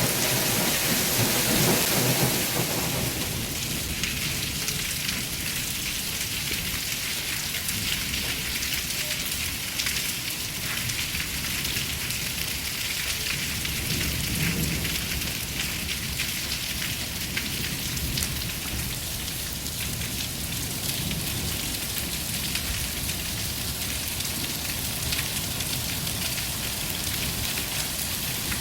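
Heavy rain pouring down steadily, with a low rumble beneath the hiss. It is a little louder in the first few seconds, then holds level.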